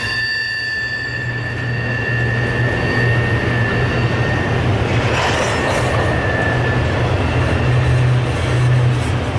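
Freight train cars rolling past with wheel flange squeal: a high, steady squeal that fades out about seven seconds in, over a continuous low rumble of the train.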